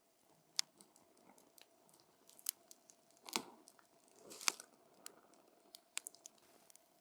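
Burning wood in a campfire crackling: scattered sharp pops and snaps, the loudest two about three and a half and four and a half seconds in.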